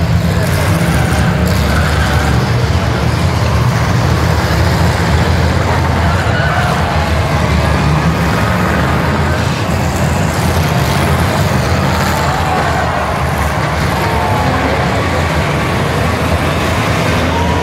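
Many demolition derby car engines running together at once, a loud, steady rumble with no single crash standing out.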